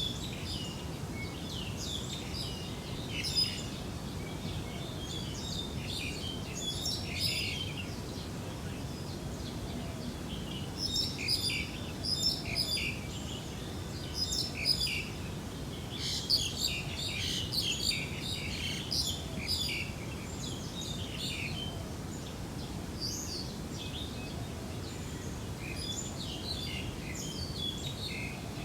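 Birds chirping in many short, quick calls that come in clusters and fade between them, over a steady low background noise.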